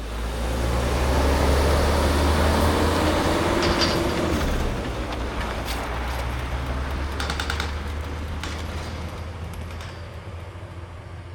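Heavy diesel truck engine running with a deep steady rumble and a whine that rises and falls in the first few seconds, with sharp metallic clicks and rattles from about four seconds in; the sound slowly fades.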